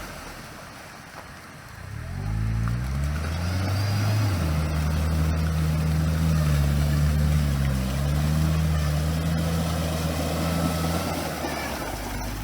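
ATV engine revving up about two seconds in, then running steadily under load as the machine drives through water. The pitch dips briefly midway, and the engine eases off near the end.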